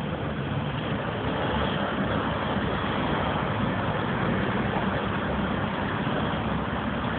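Tram running, a steady rumble and rolling noise that grows slightly louder about two seconds in.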